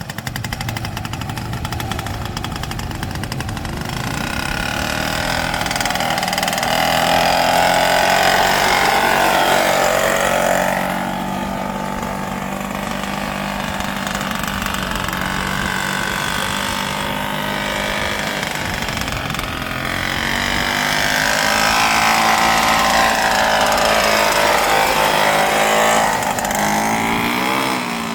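Tractor engine running steadily, getting louder with its pitch rising and falling twice: once about a quarter of the way in and again near the end.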